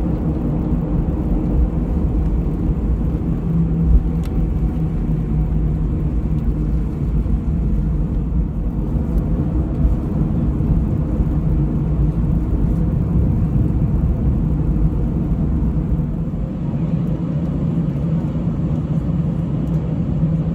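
Steady low rumble of an Airbus A320-214 and its CFM56 engines, heard inside the passenger cabin, with a faint steady hum and one brief click about four seconds in.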